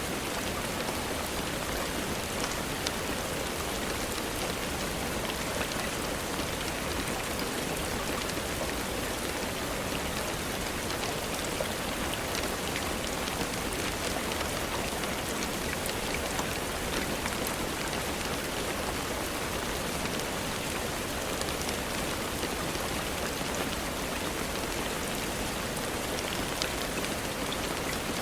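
Steady rainfall: an even hiss with scattered sharp ticks of drops.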